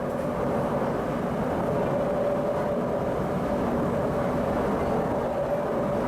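Shanghai Metro Line 11 train running at a steady speed: an even rumble of wheels on rail with a steady mid-pitched tone held over it.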